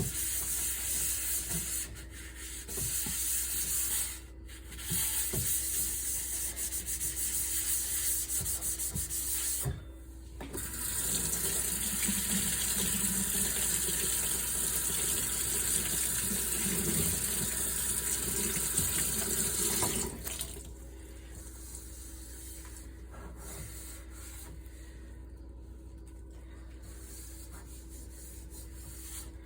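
Tap water running into a sink. It breaks off briefly a few times, then is shut off about two-thirds of the way through, leaving a much quieter background.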